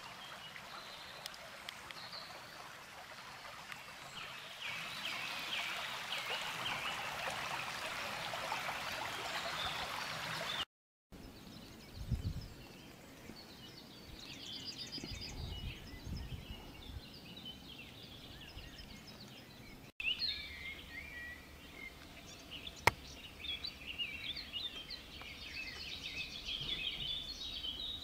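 Songbirds singing, with short chirps and trills, over a steady rushing hiss for the first ten seconds or so. The sound breaks off abruptly twice. A few low thuds come just after the first break, and a single sharp click comes near the middle of the last part.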